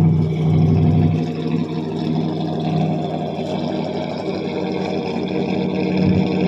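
1978 Pontiac Bonneville's 301 V8 running at a rough idle after a cold start, its level sagging about a second in as it struggles to keep running. The owner takes this for a plugged idle circuit in the carburetor, which will not let it idle once the choke comes off.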